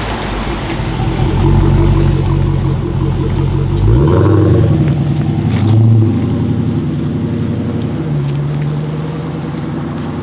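Modified car engine with a deep exhaust rumble, idling and moving off, with short revs about four and six seconds in.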